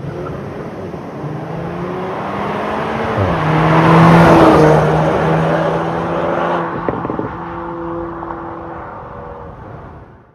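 Škoda Octavia RS Mk4.5's 2.0 TSI four-cylinder turbo engine (EA888 evo4) through an MS-R valved cat-back exhaust, driving by under power. The exhaust note climbs, drops once about three seconds in, then holds steady as the car passes at its loudest around four seconds in and fades away.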